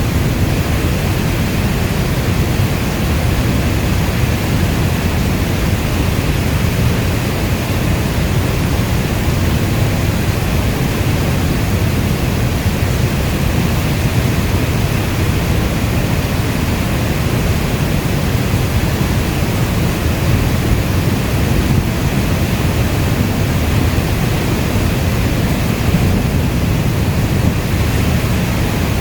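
Heavy rainstorm ambience: a dense, steady wash of rain, heavy in the bass, with no single drops, gusts or thunderclaps standing out.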